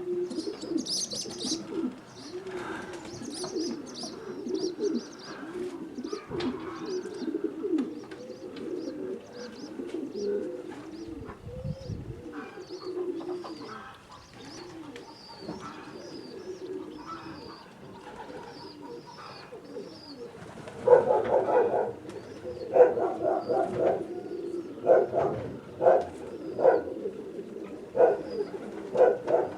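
Nikolaev pigeons cooing continuously, with short high chirps over them. From about twenty seconds in the calls come louder in repeated bursts.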